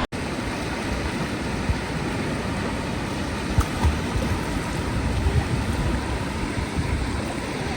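Sea water washing and sloshing steadily in the shallows, with a few soft low thumps about midway.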